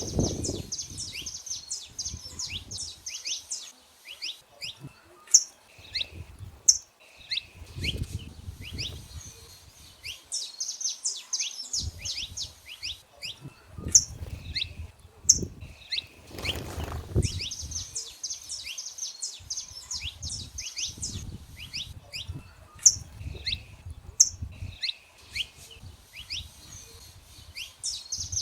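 Saffron finches singing: phrases of rapid, high chirping notes that come back every several seconds, with single sharp, loud high notes in between. Low rumbles come and go underneath.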